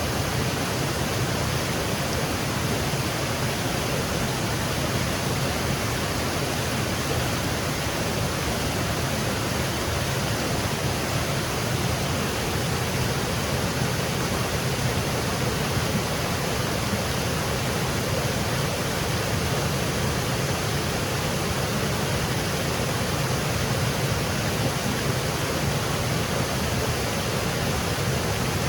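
Small woodland waterfall cascading, a steady, even rush of falling water.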